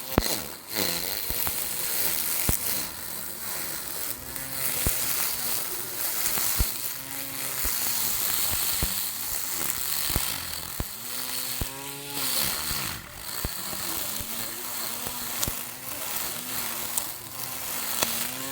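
Small lawn mower's motor running with a whining hum whose pitch repeatedly sags and recovers as it cuts, with scattered sharp clicks.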